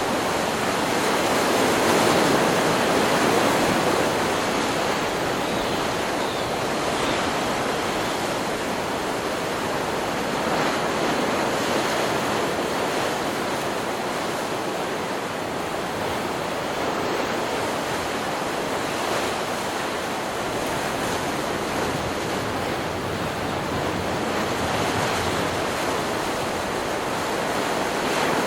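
Ocean surf: waves breaking and washing up a beach in a steady, continuous rush that swells a little in the first few seconds.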